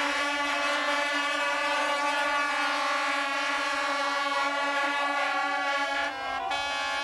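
A steady drone of fixed pitch, like an engine held at a constant speed, that dips briefly about six seconds in.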